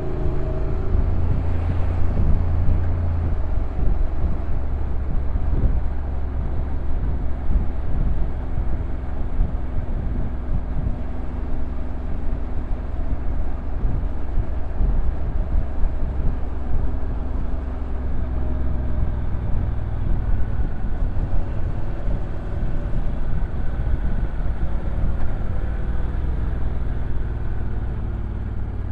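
Honda NC750X parallel-twin engine running at low revs on a downhill ride, a steady low drone with road and wind noise. The engine note shifts slightly near the start and again about two-thirds of the way through.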